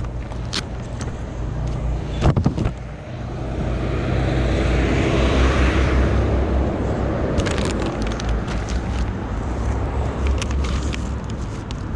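Honda Monkey's small single-cylinder engine running with a steady low rumble, a couple of sharp clicks a little over two seconds in, then a swell of road and wind noise that builds for a few seconds and eases off.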